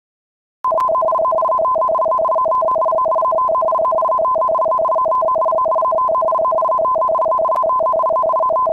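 Electronic two-tone alarm tone, two steady pitches sounding together in a fast buzzing pulse, that starts abruptly just under a second in and holds level. It is the kind of alert tone used for an earthquake warning.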